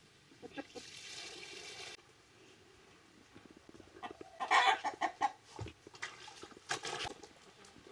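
Chickens clucking and calling, with one drawn-out call early on and a loud flurry of squawks about halfway through, then another short burst near the end.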